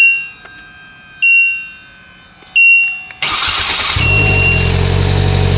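A 2022 Polaris Slingshot being push-button started from cold. Its dashboard chime gives a short high beep about every second and a half, the starter cranks briefly a little over three seconds in, and the four-cylinder engine catches about a second later and settles into a steady idle.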